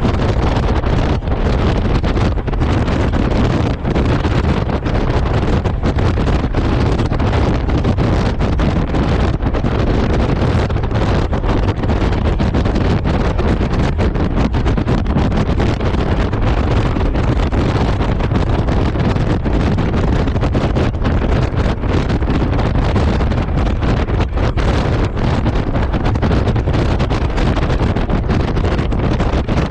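Heavy, steady wind rush and buffeting on the microphone of a moving motorcycle, with a low rumble of engine and road noise underneath.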